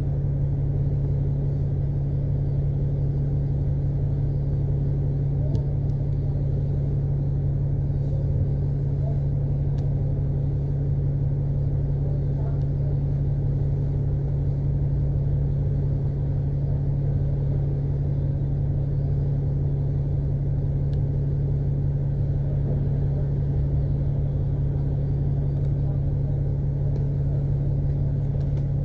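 Alexander Dennis Enviro500 double-decker bus heard from inside the passenger cabin: a steady, unchanging low engine hum with a rumble underneath and a few faint clicks and rattles.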